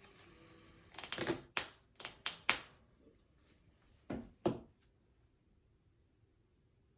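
Trading cards being handled on a tabletop: a short rustle, then five quick knocks in about a second and a half, and two more about two seconds later.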